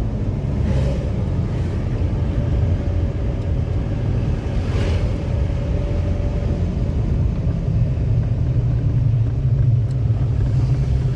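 Steady low rumble of a vehicle travelling along a road: engine and road noise, with a faint steady tone through the first half.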